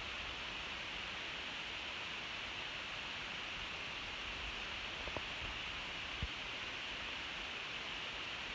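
Steady faint hiss of background room noise, with two small soft ticks about five and six seconds in.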